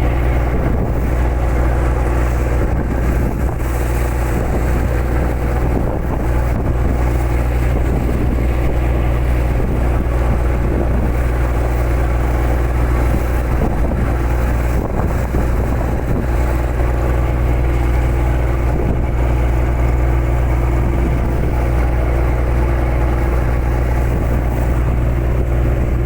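A boat's engine running at a steady low drone, with wind and water noise.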